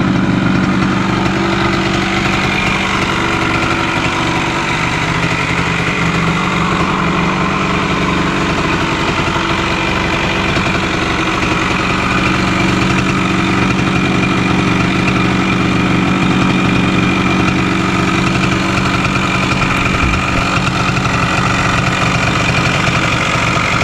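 1974 Yamaha DT100's single-cylinder two-stroke engine running steadily at idle, with no revving.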